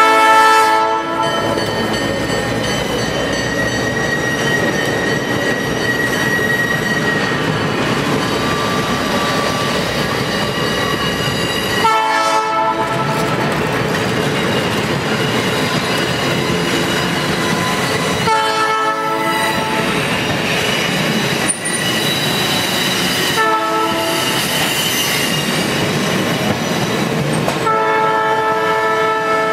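A diesel locomotive's multi-tone air horn sounds several times, in blasts of about a second each and one longer blast near the end, over the steady rumble of passenger cars rolling past close by on street track.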